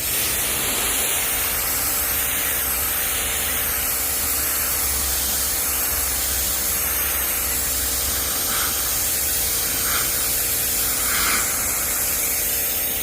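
Electric pressure washer running and spraying a steady jet of water, its motor humming evenly underneath the hiss of the spray.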